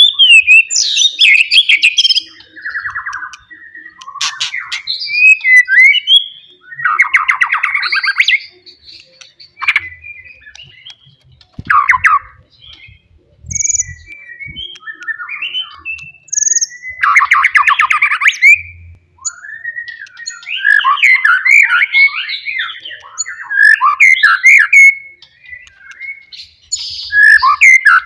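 White-rumped shama (forest murai batu) singing loudly in varied phrases of sliding whistles, rapid trills and harsh buzzy notes, with short pauses between phrases. This is the loud full song that provokes rival males.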